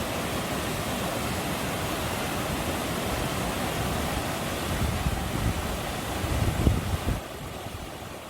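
Mountain stream water rushing over rocks in a steady hiss, with wind buffeting the microphone in low rumbling gusts about five to seven seconds in. The rushing falls away abruptly a little after seven seconds.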